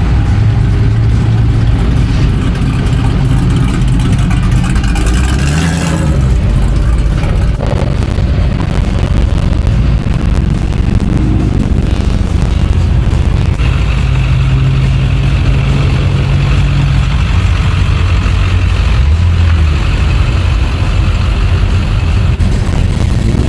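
Vehicle engines running, with a low, steady rumble and a brief rise and fall in pitch about six seconds in.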